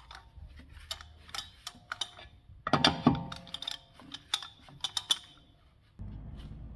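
Irregular sharp metallic clicks and clinks with brief ringing, from hand tools on metal parts, with a louder cluster of clanks about three seconds in. A steady low hum comes in near the end.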